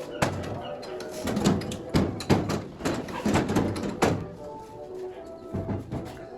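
A series of irregular knocks and clatters of tools being worked, with music in the background.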